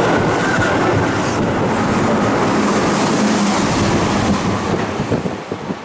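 A Keihan electric train passing through the station at speed: a steady rush of wheels and cars with wheel clatter, fading as the last car pulls away about four and a half seconds in.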